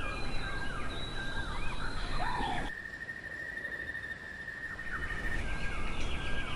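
Wild birds calling in short whistled chirps and sliding notes over a steady low background rumble, with a thin steady high tone held for a couple of seconds in the middle.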